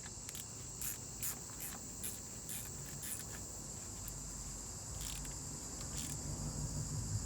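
Hand ratchet with a 10 mm socket clicking in short strokes, about two or three clicks a second, as the transmission pan bolts are run down tight. Crickets chirr steadily behind it.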